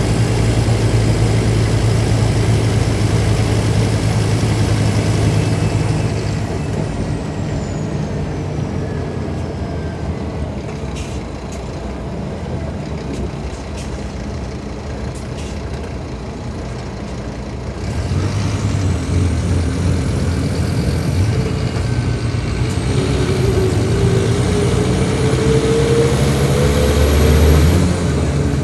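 Scania K310IB bus's five-cylinder diesel engine running under load. About six seconds in it eases off and the turbo whistle falls away, with a few short clicks in the lull. From about eighteen seconds it pulls hard again, its note and turbo whistle rising until they cut off sharply near the end, as at a gear change.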